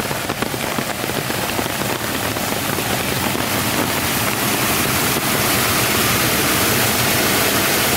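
Storm runoff rushing and pouring into a street storm drain: a steady rush of water that grows louder about halfway through.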